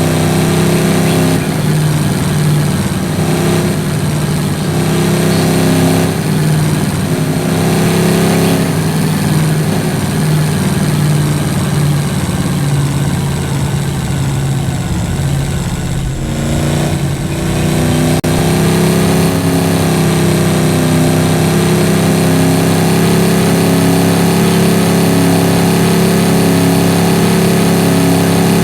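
Motor vehicle engine running continuously, its pitch wavering a little in the first half, dipping briefly a little over halfway through, then holding a steady, even note.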